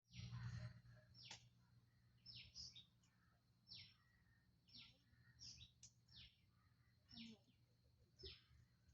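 A bird calling over and over, each call a short high note that drops sharply in pitch, about one a second, faint against a steady low hum.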